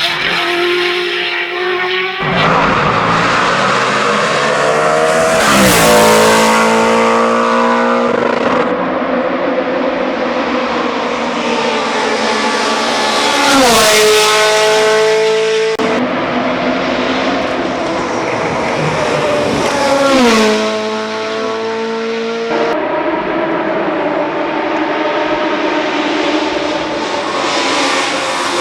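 Hillclimb race car engines running at high revs, each engine's pitch dropping sharply as a car goes by, in several short passes cut one after another.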